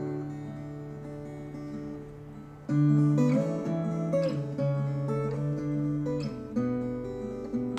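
Viola caipira, the Brazilian ten-string guitar, played slowly: a chord rings and fades, then a fresh strum comes in loudly about three seconds in, followed by plucked notes, a few of them bending in pitch.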